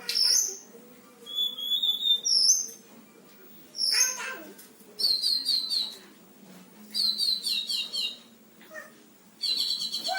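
A selendang biru songbird singing vigorously with mimicked phrases: sliding whistled notes early on, then bursts of rapid repeated trilled notes, a couple of seconds apart, from about five seconds in.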